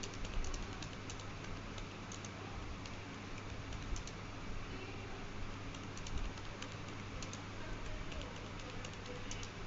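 Scattered light clicks at an uneven pace over a steady low hum and hiss.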